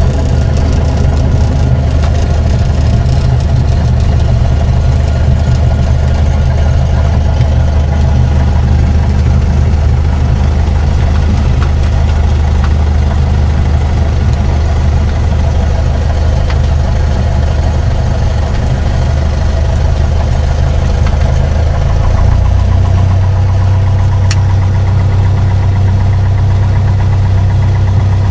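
Piper PA-28-161 Warrior's four-cylinder Lycoming piston engine running steadily. About three-quarters of the way through, its pitch steps up slightly and holds there.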